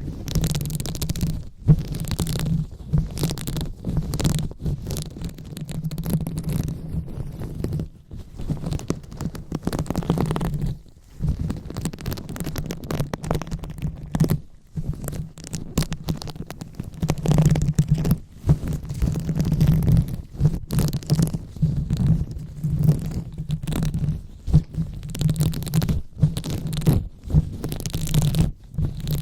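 ASMR 'brain massage': fingers rubbing and massaging directly on the microphone, giving a continuous rumbling, scratchy handling noise in irregular strokes, with a few brief pauses.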